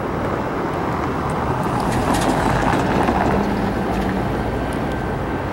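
Amtrak diesel locomotive approaching slowly, its engine running and its wheels rumbling on the rails. The sound grows louder from about two seconds in.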